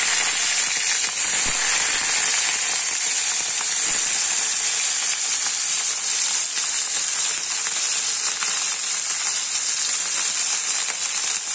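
Chopped onions and green chillies sizzling steadily in hot peanut oil in a steel kadhai, with fine crackling throughout.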